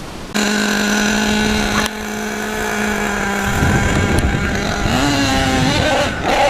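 Nitro engine of an HPI Savage SS RC monster truck running at a steady high-pitched note that starts abruptly. About halfway through the note breaks up and wavers, with a brief rise in pitch a little later.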